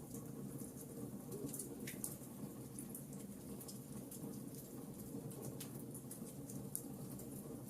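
Wood fire burning: a steady low rush of flames with small irregular crackles and pops from the logs, a few sharper ones scattered through.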